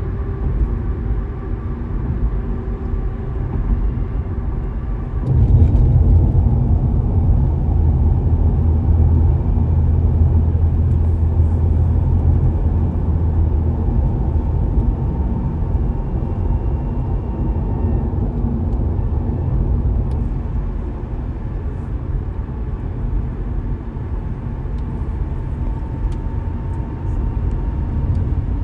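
A car driving on the road, with steady low engine and tyre rumble. The rumble gets louder suddenly about five seconds in, then eases a little later on.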